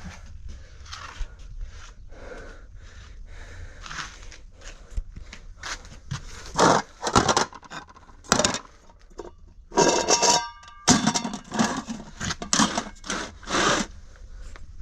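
Things being scraped, shifted and knocked about by hand in a series of irregular rustling bursts, louder in the second half, with a brief ringing about ten seconds in.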